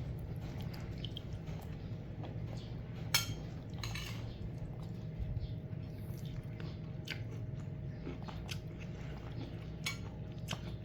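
A cat chewing food, with irregular short crunches and clicks; the sharpest comes about three seconds in.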